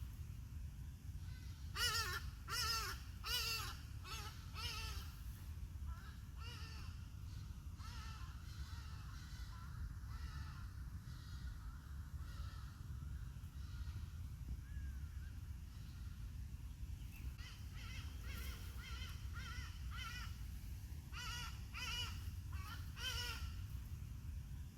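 A bird calling in bouts of three or four short repeated calls, once a few seconds in and again in the last third, over a steady low rumble.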